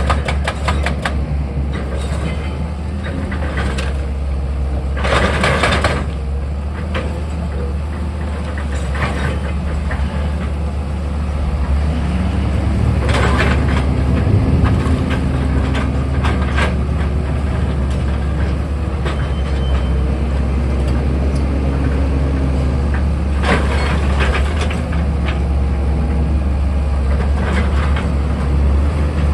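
Excavator engine running steadily with a heavy low hum. Brief rasping bursts come every several seconds, and its pitch rises and falls slightly midway.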